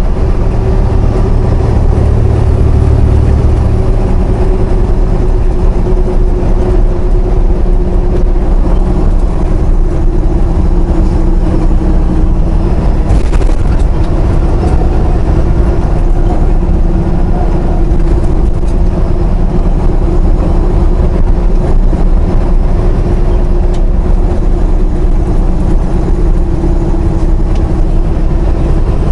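Semi truck's engine and road noise heard inside the cab while cruising on the highway: a loud, steady low drone with a constant hum.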